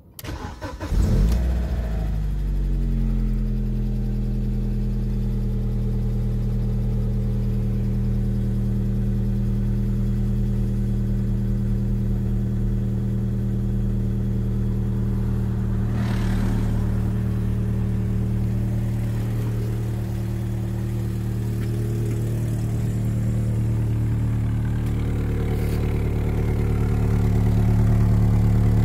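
BMW E46 318i four-cylinder petrol engine starting about a second in, with a brief flare of revs. It then settles into a steady idle, heard louder near the end as the sound comes from close to the tailpipe.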